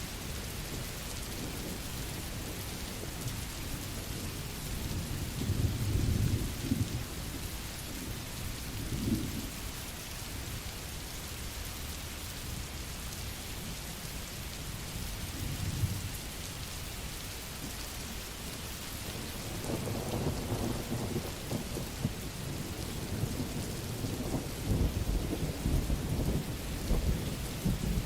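Steady rain hiss with thunder rumbling low underneath: a swell about six seconds in, shorter ones near nine and sixteen seconds, and a longer rolling stretch through the last third.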